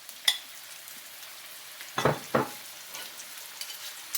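Food sizzling in hot olive oil while being stirred, with sharp utensil clicks and two louder bursts of sizzling or scraping about two seconds in.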